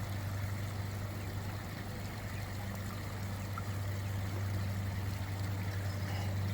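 Garden pond waterfall running steadily, with a low steady hum underneath.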